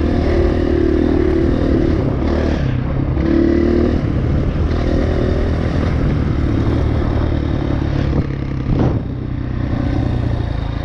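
Enduro dirt bike's single-cylinder four-stroke engine running on a trail ride, the revs rising and falling, with clatter from the bike over rough ground. The engine eases off briefly near the end, with a sharp knock.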